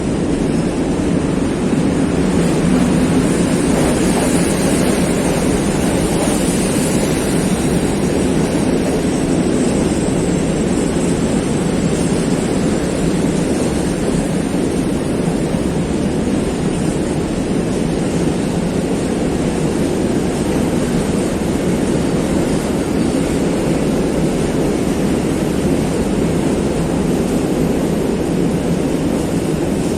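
A train passing at close range: a steady, loud rumble of wheels on rails that holds without a break.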